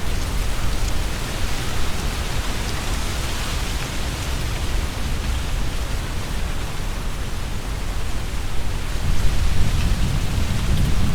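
Leaves rustling as strong wind blows through the trees, with low wind rumble on the microphone. A stronger gust comes in about nine seconds in and deepens the rumble.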